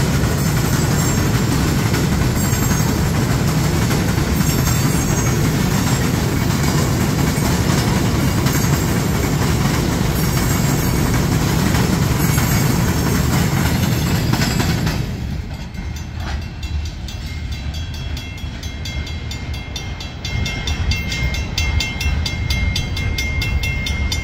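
Freight train passing, a heavy rumble of locomotives and cars. About fifteen seconds in it drops abruptly to a quieter, regular clacking of car wheels over the rail joints.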